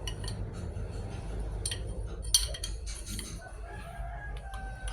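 Light clinks and clanks of metal engine parts being handled on a workbench, with one sharper clank about halfway through. Near the end a distant rooster crows, one drawn-out call that falls slightly in pitch.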